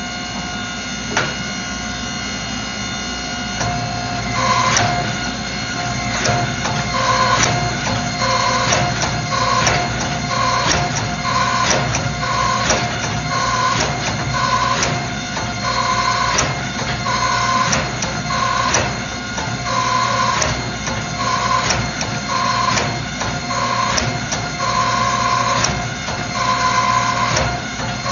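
Forging shop machinery running with a steady hum, described as super loud and annoying. About four seconds in, a rhythmic mechanical knocking joins it at roughly one beat a second, each beat carrying a short clear tone.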